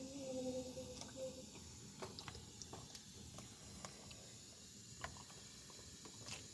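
Faint, irregular clicks and ticks, with a short pitched hum or call in the first second and a half.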